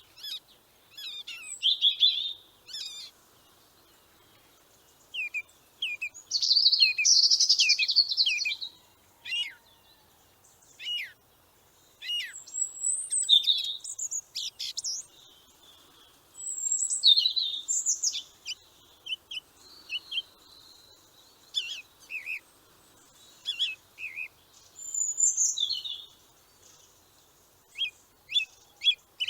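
Small birds singing and chirping in high, quick phrases, coming in bouts with short pauses between them.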